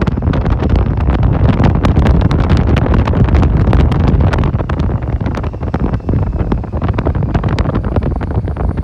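Loud wind buffeting the microphone of a moving motorcycle, with the motorcycle's running noise underneath.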